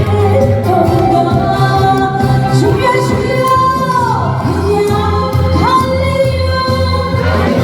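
A woman sings a Korean trot song live over instrumental accompaniment. Her held notes slide up and down, with a steady bass line underneath.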